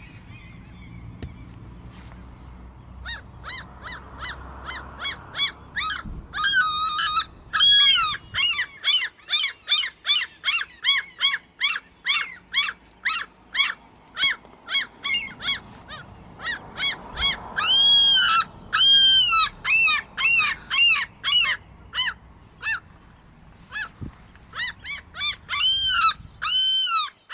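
A bird giving a long series of loud, short, arching calls, two or three a second, with a couple of short pauses. The uploader takes these calls for the happy singing the birds do once they have been fed and trust him.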